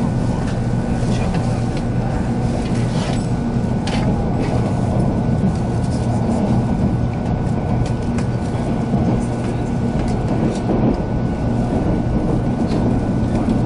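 Running noise inside the passenger cabin of a Series 300 Shinkansen in motion: a steady low rumble and hum with a faint steady whine above it and a few scattered clicks.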